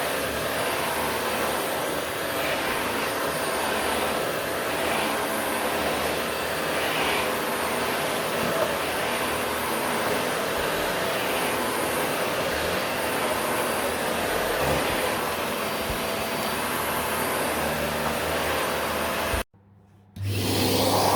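Vacuum cleaner running steadily with a constant rushing noise, cutting off abruptly near the end.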